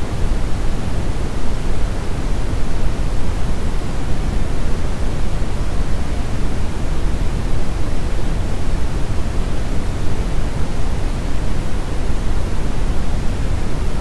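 Steady brown noise: an even, unbroken hiss-rumble with most of its weight in the low end, tapering off toward the treble.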